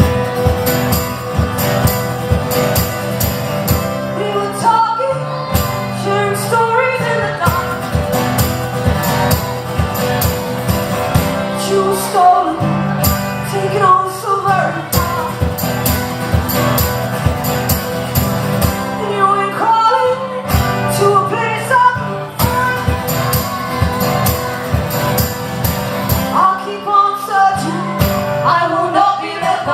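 Live band playing the opening of a song, with singing in separate phrases over a steady instrumental accompaniment.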